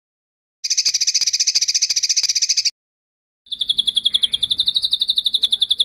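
Bird song from a songbird training recording: a high, rapidly pulsed rolling trill of about two seconds, a short break, then a second fast trill at a slightly lower, steady pitch that carries on.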